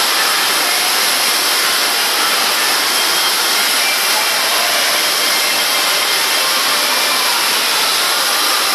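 Heavy rain hammering on a factory roof, a loud, steady, unbroken hiss.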